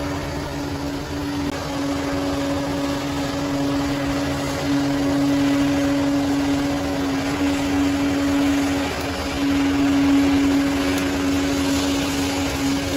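Bulldozer working: its diesel engine runs steadily under a constant whine, growing a little louder near the end.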